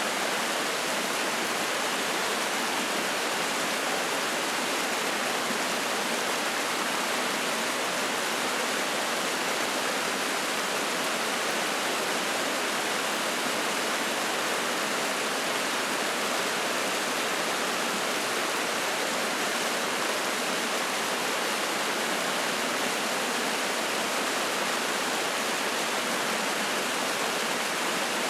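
Spring-fed mountain stream splashing over rocks: a steady, even rush of water.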